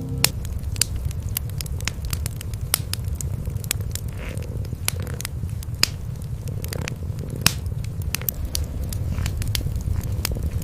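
Cats purring in a steady low rumble, with a wood fire crackling in many sharp, irregular pops.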